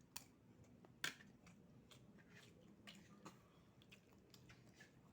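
Faint eating sounds: chewing with scattered small clicks, the sharpest about a second in.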